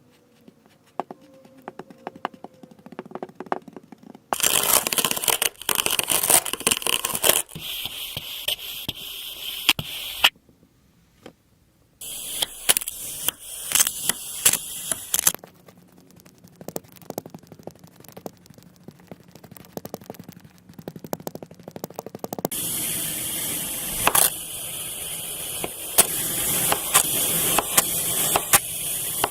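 Kinetic sand being worked by hand, crumbling and crackling with a grainy hiss full of tiny clicks. It comes in separate stretches that start and stop abruptly, the loudest about a third of the way in and near the end, with a brief silent pause about ten seconds in.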